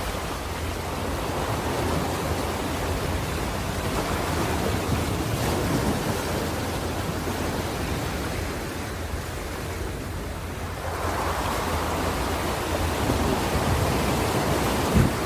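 Ocean waves washing on a shore: a continuous rushing surf that eases off about two-thirds of the way through, then swells again as the next wave comes in.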